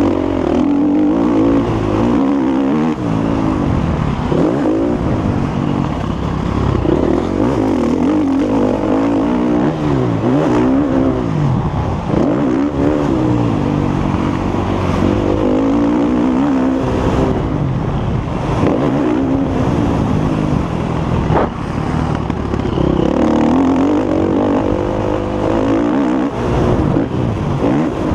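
Motocross bike engine running hard through a race, its pitch rising and falling again and again as the rider opens and closes the throttle.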